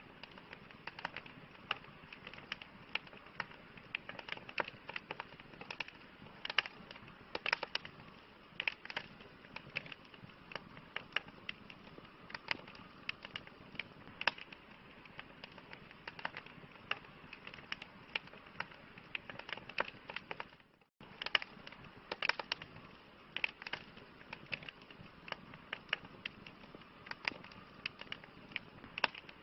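Campfire crackling: a steady low hiss of burning wood with many irregular sharp pops and snaps. The sound cuts out for a moment about twenty-one seconds in.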